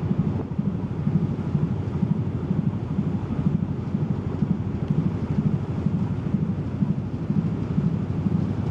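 Car ferry under way: a steady low rumble from the ship's engines, mixed with wind buffeting the microphone.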